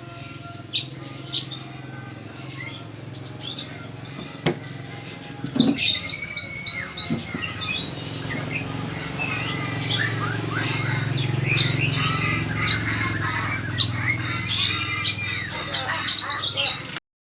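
Mantenan (kuniran gunung) bird singing: a busy run of short, high chirps and trills, including a quick series of about six sharp notes a little over five seconds in. A steady low hum runs underneath.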